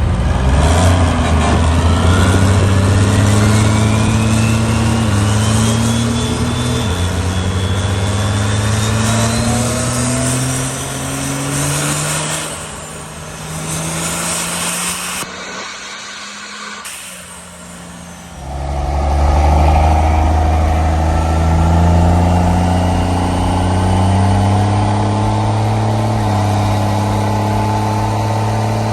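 Race truck's engine at full throttle on a chassis dyno, pitch climbing through the gears with two shifts a few seconds in, and a rising whistle alongside. It backs off about halfway through, then starts a second climbing pull. The tires are spinning on the rollers, which holds the dyno number down.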